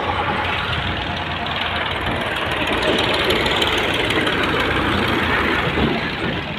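Tractor engine running steadily just after being started, with a rapid knocking beat, a little louder in the middle and easing off near the end.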